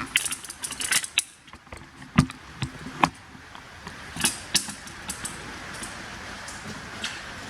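Handling noise from brake lines and hoses being picked up: rustling and light metal clicks in the first second, then a few sharp knocks spread over the next few seconds.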